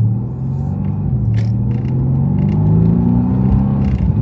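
Twin-turbo V8 of a Mercedes-AMG C63 S pulling hard under full throttle, its pitch climbing steadily, with a brief dip about a second in before it rises again.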